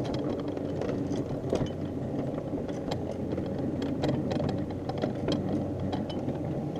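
A small motor running steadily, with many irregular clicks and ticks over it.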